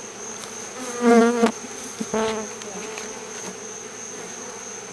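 Honeybee swarm buzzing, disturbed from its bait trap at night and flying into people and the flashlight. Two bees pass close by, louder, about one and two seconds in.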